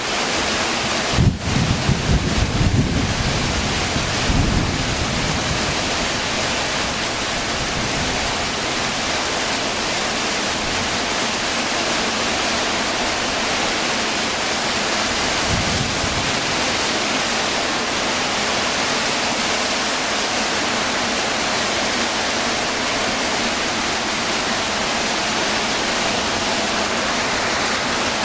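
Heavy rain falling steadily, a dense even hiss, with a few choppy low rumbles in the first few seconds and once more around the middle.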